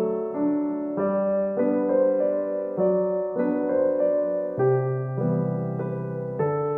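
Background music: a gentle solo piano piece, soft chords played at a slow, even pace.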